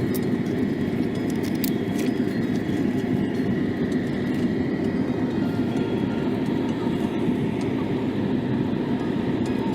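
Steady low rumble of vehicle cabin noise, with a faint steady high tone and a couple of light clicks about two seconds in.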